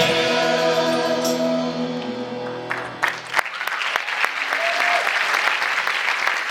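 A praise band's final chord rings out and fades over the first couple of seconds, then the audience breaks into applause, with a short whoop about halfway through the clapping.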